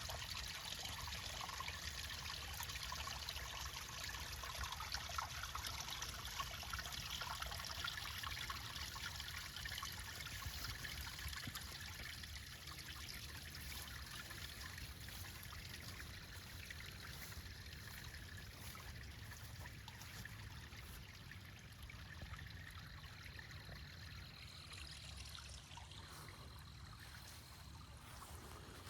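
Fresh storm runoff flowing as a small stream through a ravine gully, a steady trickle of water that grows gradually fainter.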